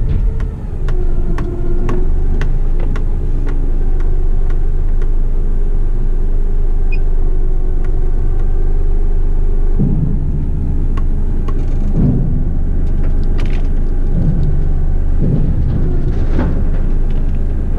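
Heavy rigid truck's diesel engine running steadily with a deep rumble, with light ticks in the first few seconds. From about ten seconds in, a series of low thumps comes every second or two.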